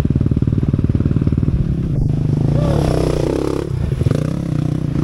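Dirt bike engine idling with an even, rapid pulse, then rising in pitch as the throttle is opened for about two seconds midway before it settles back to idle.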